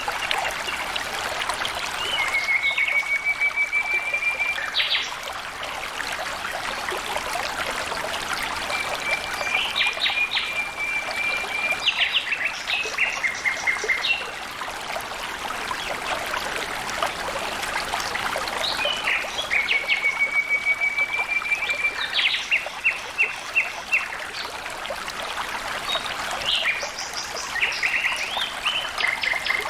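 Water flowing and trickling steadily, with a bird singing over it four times, each song a level trill of about two seconds followed by a run of quick, higher notes.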